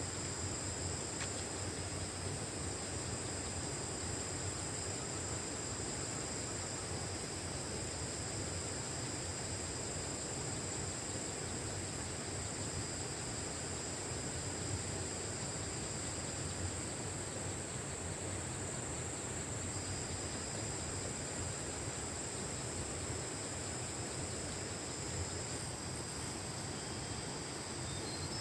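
Steady high-pitched insect chorus, crickets or cicadas, with two shrill drones at different pitches over a soft outdoor hiss; the lower drone breaks off for a couple of seconds past the middle.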